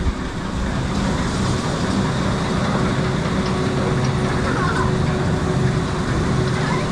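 Log flume ride running: a steady mix of rushing water and ride machinery, with a constant low hum underneath.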